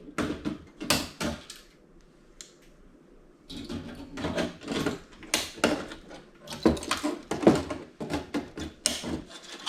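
Irregular clicks, knocks and rattles of hand tools on metal and plastic as metal pins are pulled out of a TV circuit board, with a quiet lull about two seconds in.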